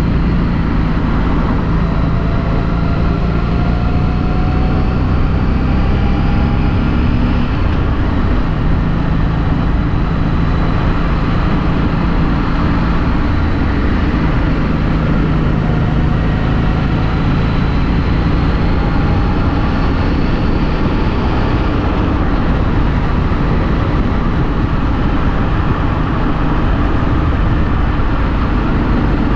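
Harley-Davidson Street 500's V-twin engine, stock exhaust, pulling the bike along with steady wind and road noise, heard from the rider's helmet. Its pitch climbs and then drops about a quarter of the way in, and climbs and drops again about two-thirds of the way through.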